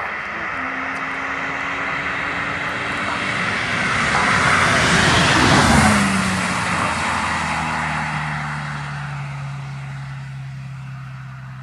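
BMW E36 320i's 2.0-litre M52B20 straight-six with a custom rear muffler, driving past. The exhaust note grows louder, drops in pitch as the car passes about six seconds in, then fades away.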